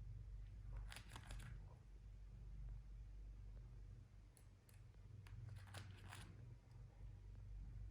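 Near silence: a low steady hum, with brief faint scratchy rustles about a second in and again around six seconds.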